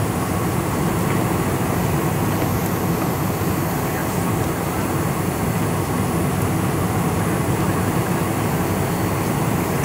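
Steady low rumble and roar in the cabin of a Boeing 747-400 rolling on the ground after landing: engine noise mixed with the rumble of the wheels on the runway or taxiway.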